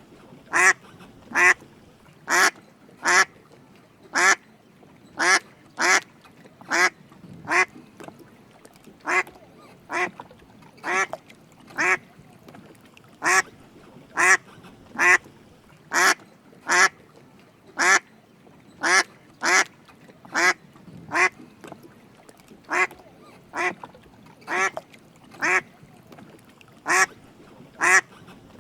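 Drake mallard duck quacking: short single quacks repeated roughly once a second, in a steady series with a few brief pauses.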